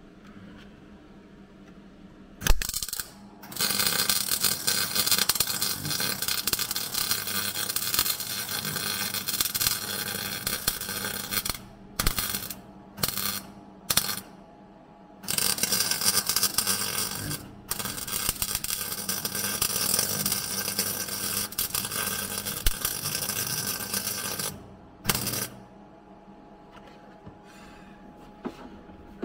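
Welding on the car's steel floor pan in bursts: a loud sputtering crackle that starts and stops abruptly, two long runs of several seconds each with three short tacks between them and one more near the end, after a single knock.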